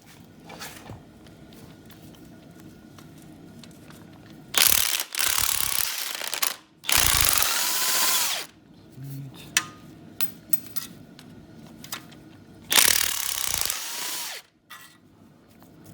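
Impact wrench hammering in three bursts of one to two seconds each, about five, seven and thirteen seconds in, breaking loose the exhaust manifold bolts on a 5.3 LS V8.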